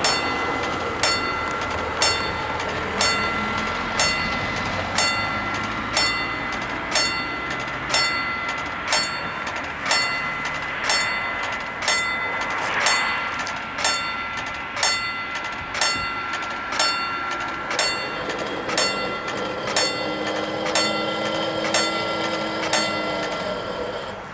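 Railway level-crossing warning bells striking steadily about once a second, each stroke ringing on between strikes. The strokes stop near the end.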